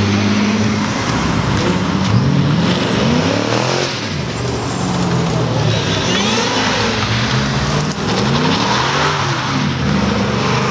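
Several Ford Mustangs accelerating past one after another, each engine revving up and dropping back, giving a run of rising and falling engine notes over a continuous engine rumble.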